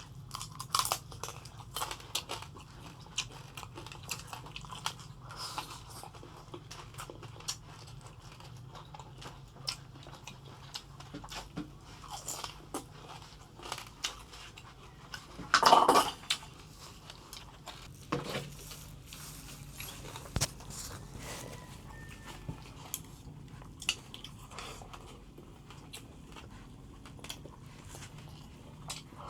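Food being eaten: chewing and crunching with many short clicks and taps, and one louder crunch or knock about sixteen seconds in.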